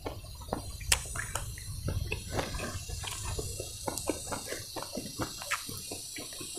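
A person chewing a mouthful of food up close: irregular wet smacking and crunching clicks, several a second, over a low steady rumble.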